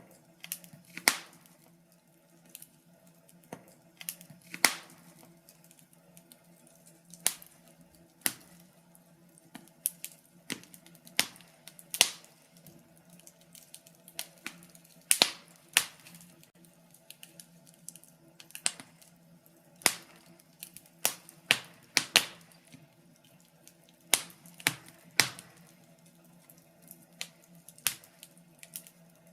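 Wood fire crackling: irregular sharp pops and snaps, sometimes single and sometimes in quick clusters, over a faint steady low hum.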